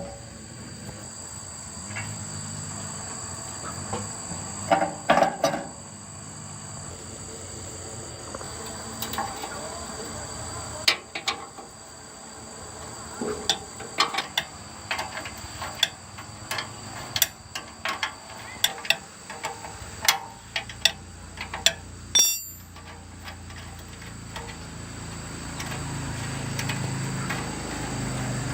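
Insects chirring steadily in a continuous high tone, with scattered sharp metallic clinks and knocks of tool work on a machine. A low hum builds near the end.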